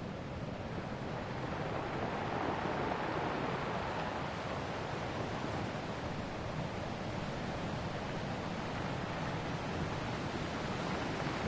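Ocean waves washing onto a shore: a steady rush of surf that swells a little about two seconds in and then eases back.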